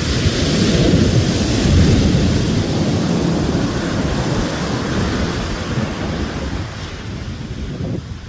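Ocean waves breaking: a heavy surge of surf swells over the first two seconds, then washes out and slowly fades, with a low rumble that may be partly wind on the microphone.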